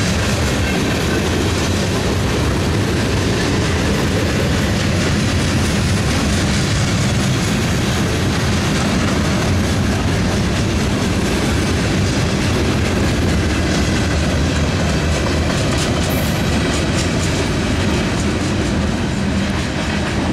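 Freight train's gondola and hopper cars rolling past, their steel wheels clacking over the rail joints in a loud, steady noise.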